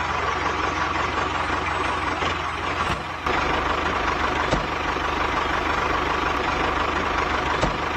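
Tractor engine running steadily, with a low pulsing hum; it gets a little louder about three seconds in.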